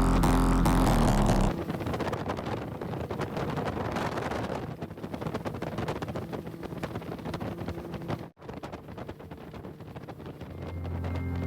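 Boat under way on a river, its running noise mixed with wind buffeting the microphone; background music plays at the start and fades back in near the end, and the sound cuts out briefly about eight seconds in.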